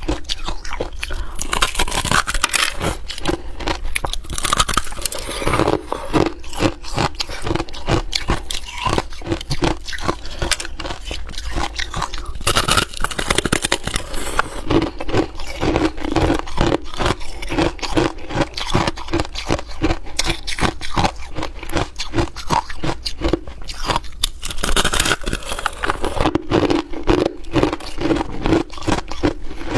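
Ice being bitten and chewed close to the microphone: a dense run of sharp cracking crunches over a steady chewing rhythm.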